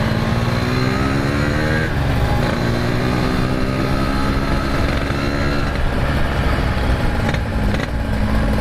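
Yamaha RX-King's single-cylinder two-stroke engine through an aftermarket RBK exhaust, ridden under way. The engine pitch rises, drops at a gear change about two seconds in, climbs again, then holds steady.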